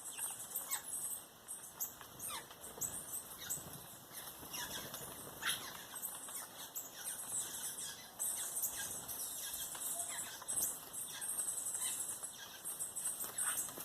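Many short, high-pitched bird chirps and calls in quick succession, with an occasional sharp downward-sweeping note.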